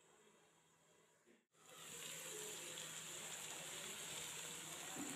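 Egg roast masala sizzling in the pan with the lid off: a steady frying hiss, faint at first, then much louder after a brief break about a second and a half in.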